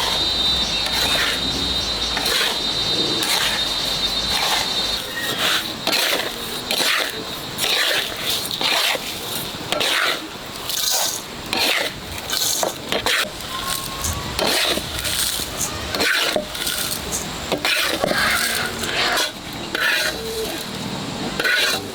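Salt and peppercorns being stirred and scraped in a dry pan as they toast, in irregular scraping strokes about once or twice a second. A steady high hiss runs under the first few seconds, then stops.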